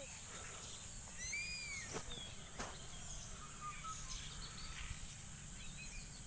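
Rural outdoor ambience: a steady high insect drone with a few birds chirping, two sharp clicks about two seconds in, and a low rumble underneath.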